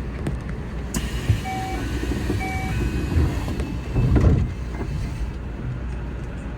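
Keio Inokashira Line electric train at a station stop, running with a steady low rumble. A sharp click comes about a second in, then two short two-note electronic chime beeps about a second apart, then a louder rush of noise around four seconds in.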